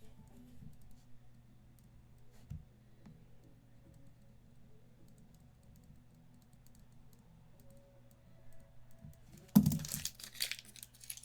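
Faint scattered clicks and taps, then a loud burst of rustling and crackling about a second and a half before the end.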